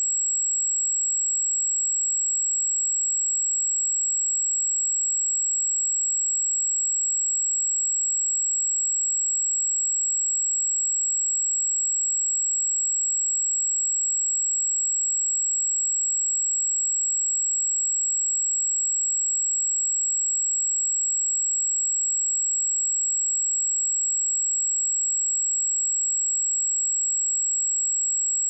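Steady high-pitched pure sine tone at 7678 Hz, a single unchanging test tone for checking speakers and headphones.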